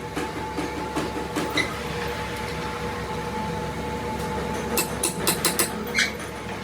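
Workshop machinery running with a steady hum, with sharp metallic clicks and knocks, a cluster of them about five seconds in.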